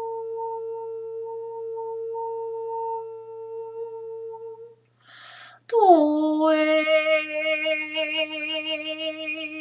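A woman toning wordlessly: a steady, pure humming note held for about five seconds, then a breath and a louder open-voiced note that slides down and is held, wavering slightly.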